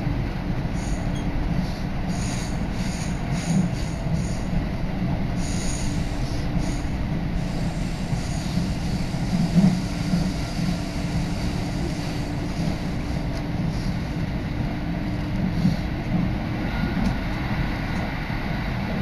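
Interior running noise of a Tokaido Line electric train moving at speed: a steady rumble of wheels on the rails with a faint steady hum and a few slightly louder bumps.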